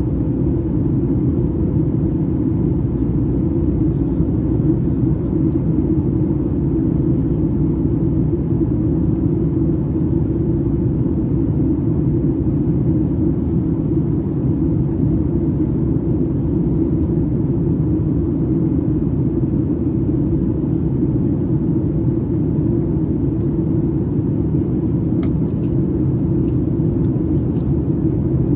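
Boeing 737 MAX 8 jet in flight, heard as a steady low rumble of engines and airflow inside the cabin, with a faint click near the end.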